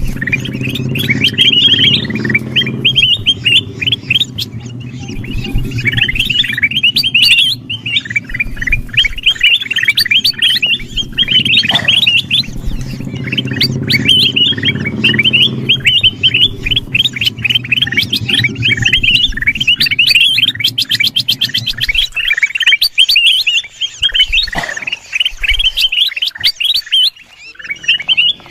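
A flock of kutilang emas bulbuls chirping busily, with dense, overlapping quick calls that barely pause. A low steady hum lies beneath the calls and stops about three quarters of the way through.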